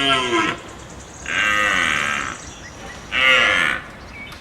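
Deer calling: three drawn-out bleating calls of about a second each, the first already under way, each dropping in pitch at its end.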